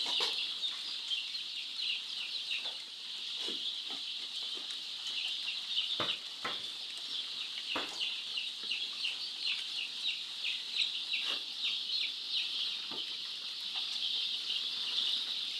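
A large brood of young chicks peeping together, a dense, steady chorus of high, short, falling chirps. A few sharp knocks come about six to eight seconds in.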